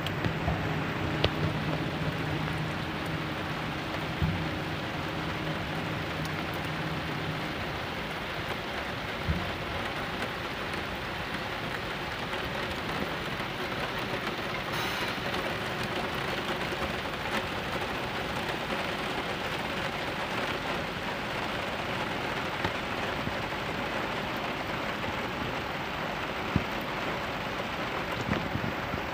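Steady rain falling, with a few sharp taps here and there. A low engine hum runs under it at first and stops about seven seconds in.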